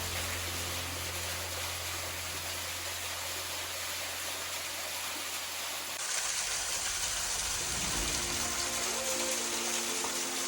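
Waterfall splashing, a creek pouring through a hole in a rock bluff, as a steady rush of falling water. The rush changes abruptly about six seconds in, turning brighter and hissier, with soft background music underneath.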